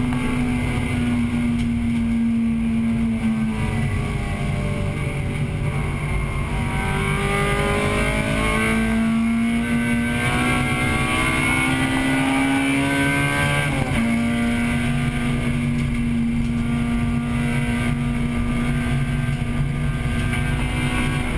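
1998 Acura Integra Type-R's 1.8-litre VTEC four-cylinder heard from inside the car at racing speed: the engine holds high revs, eases off about four seconds in, then revs up steadily through a gear until a sudden drop in pitch about two-thirds of the way through, a shift, after which it holds steady again. A steady rush of road and wind noise runs underneath.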